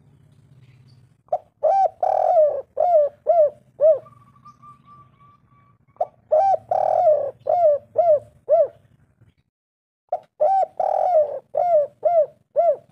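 Spotted dove cooing: three song phrases about four seconds apart, each a run of short arched coos with one longer drawn-out coo near the start.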